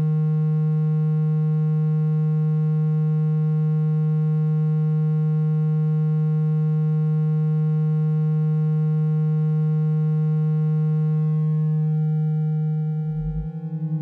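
Steady, low buzzing tone at about 160 Hz, played to vibrate water out of a phone speaker. It holds unchanged until near the end, where it thins out and a brief deeper tone sounds about 13 seconds in.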